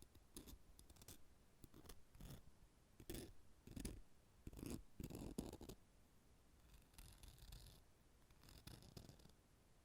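Metal nail clippers handled close to the microphone, giving an irregular series of short clicks and soft scraping and rubbing noises.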